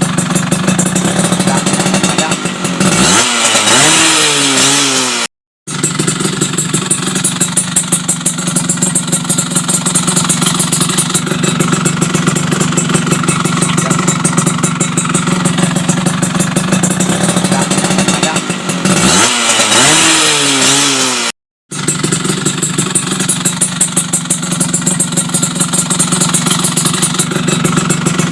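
Yamaha F1ZR two-stroke motorcycle engine idling through an aftermarket WRS exhaust, with a fast, even pulse. The throttle is revved up twice, about three seconds in and again near nineteen seconds, each rev rising in pitch and then cut off abruptly by a short gap of silence.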